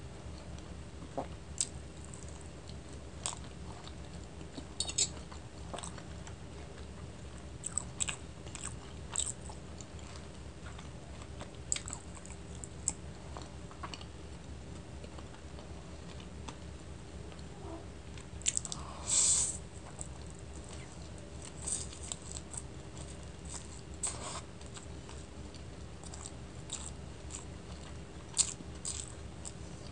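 Close-miked chewing and wet mouth sounds of someone eating chicken momos and chow mein, with scattered sharp smacks and clicks. A louder, longer burst comes a little past the middle. A steady low hum runs underneath.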